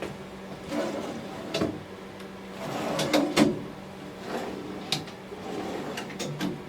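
Drawers in a lathe stand being slid open and shut several times. Each slide is a short rasp that ends in a knock, over a steady low hum.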